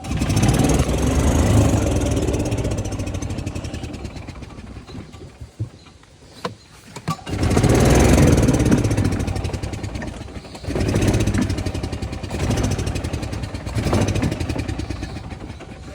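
Yamaha G9 golf cart's gas engine starting each time the pedal is pressed, running up and then dying away when it is let off, three times. With the new starter belt it catches without the starter spinning or hesitating.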